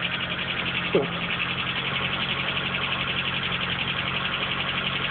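1986 Nissan Cherry 1.3's four-cylinder petrol engine idling steadily, running after its first start in four years. A brief sharp falling squeak comes about a second in.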